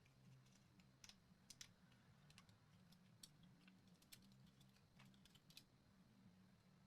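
Faint, irregular key clicks of typing on a computer keyboard, over a low steady electrical hum.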